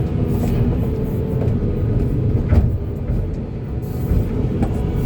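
Heavy excavator's diesel engine running steadily, with one sharp knock about two and a half seconds in.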